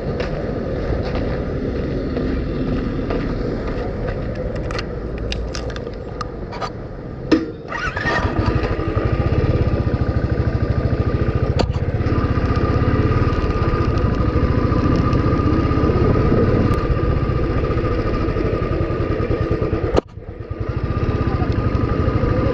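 Royal Enfield Thunderbird single-cylinder motorcycle running while being ridden, with heavy wind rumble on the microphone. The sound drops out briefly about a third of the way in and again near the end.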